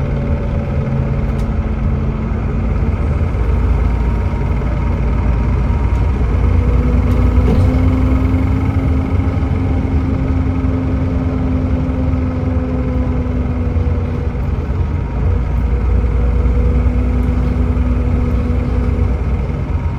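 Volvo B7TL double-decker bus's Volvo D7C diesel engine with its ZF Ecomat automatic gearbox, running steadily while the bus is driven. Its pitch holds and shifts a few times, with a tone that comes in about six seconds in, fades near fourteen seconds and returns briefly.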